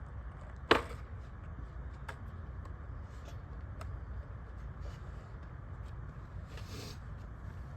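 Skateboarding at a skatepark: one sharp clack of the board about a second in, a few lighter clicks and a short scrape later, over a steady low rumble.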